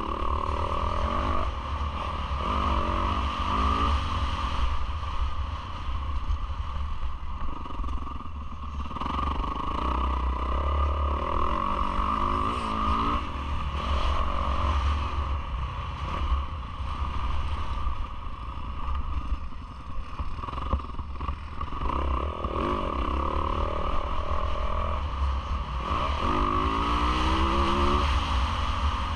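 Yamaha YZ450F four-stroke single-cylinder motocross engine, ridden hard, revving up and backing off again and again, its pitch climbing several times. Under it runs a steady low rumble.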